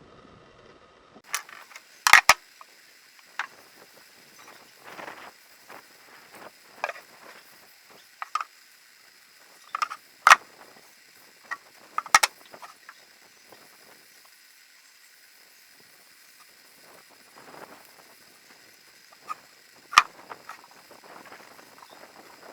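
Scattered knocks and clinks of tools and objects being handled in a blacksmith's shop, over a faint steady high hum. The loudest knocks come about 2, 10, 12 and 20 seconds in.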